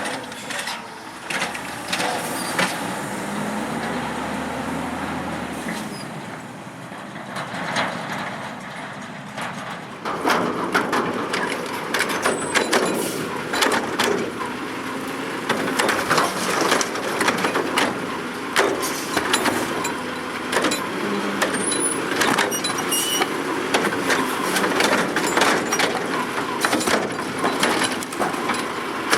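Garbage truck running on the street, with many short clanks and knocks over its engine, coming thicker and louder about a third of the way in.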